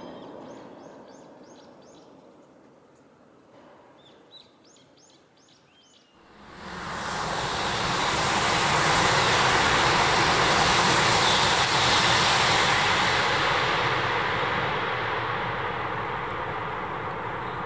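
Small birds chirping over a fading rumble. Then, about six seconds in, a high-speed Tohoku Shinkansen train rushes past as it comes out of a tunnel portal: a sudden loud rushing noise that holds for several seconds and then slowly dies away.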